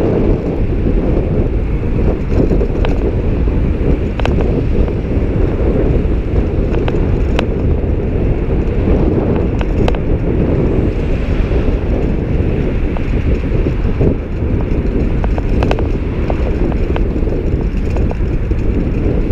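Wind buffeting the microphone of a camera on a moving bicycle: a loud, steady rumble, with scattered sharp clicks and rattles.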